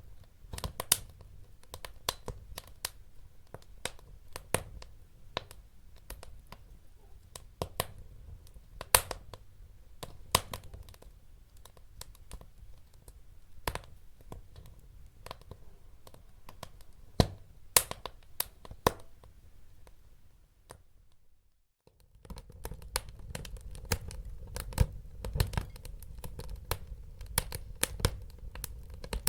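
Wood fire crackling in a fireplace: irregular sharp pops and snaps over a soft low rumble of burning. The sound cuts out briefly about 21 seconds in, then resumes with a fuller low rumble.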